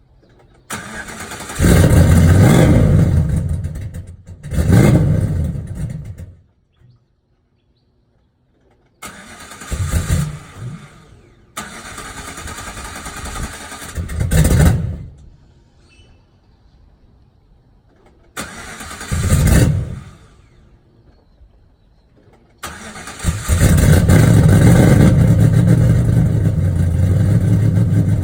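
Cold start of a V8 fitted with a Brian Tooley Racing NSR camshaft. The starter cranks and the engine catches and runs briefly several times, dying out after each try. On the last attempt, about 23 seconds in, it keeps running at a steady idle.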